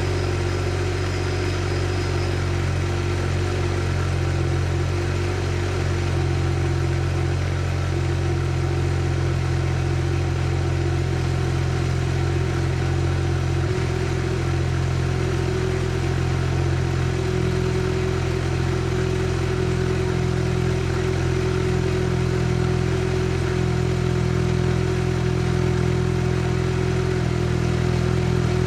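Mazda RX-7 FC3S rotary engine idling steadily, with a slight shift in its note about halfway through.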